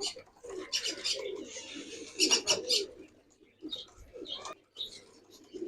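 Domestic pigeons cooing in a loft, a steady low throaty burble, with a few short scratchy noises among them, the loudest about two and a half seconds in.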